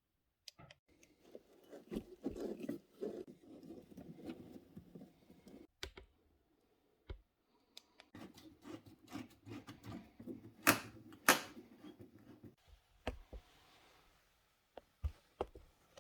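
Handling noise from tools and parts being worked by hand: two spells of rubbing and scraping with scattered clicks, and two sharp clicks about half a second apart in the second spell.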